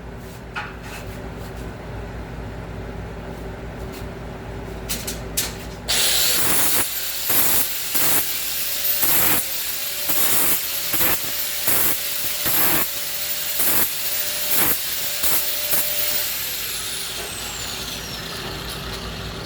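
Electric grinder deburring the freshly cut edges of steel angle iron. The motor starts about six seconds in with a high whine, and the grinding comes in repeated rasping passes. Around two-thirds of the way through it is switched off and the whine falls away as it spins down.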